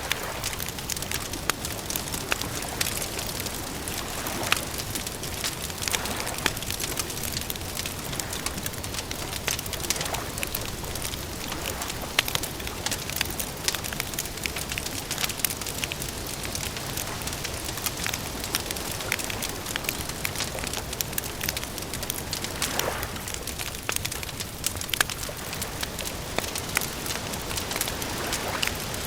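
Campfire crackling: sharp pops and snaps scattered irregularly over a steady hiss.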